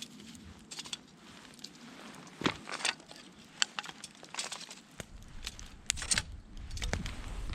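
Irregular sharp clicks and crackles, a few of them louder, with a low rumble building from about five seconds in.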